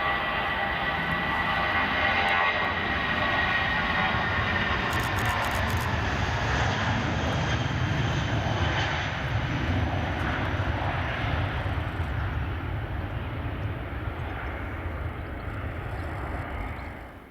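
Jet airliner engines passing close: a loud steady roar with a high whine that slides slightly down in pitch over the first few seconds. It cuts off suddenly at the end.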